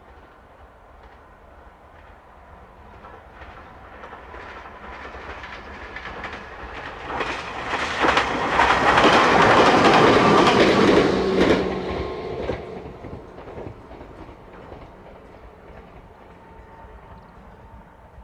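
Meitetsu 6800 series electric commuter train passing by: it comes in gradually, is loudest for a few seconds about halfway through, then fades away, its wheels clicking over the rail joints as it goes.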